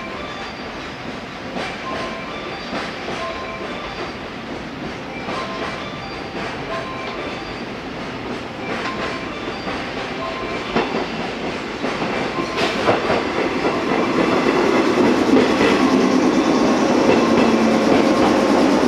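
Electric multiple-unit train drawing into a station platform: its wheel and motor noise grows steadily louder from about halfway, with clicks over the rail joints, until the cars are running alongside. A short repeated ringing tone sounds in the first half.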